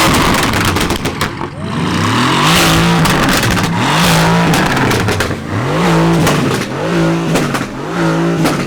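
A car engine revved hard again and again, its pitch climbing and dropping about once a second, with sharp exhaust pops and crackles throughout.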